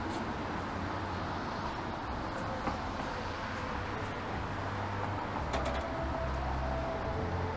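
City street traffic: the steady low rumble and road noise of passing vehicles, with a couple of faint clicks.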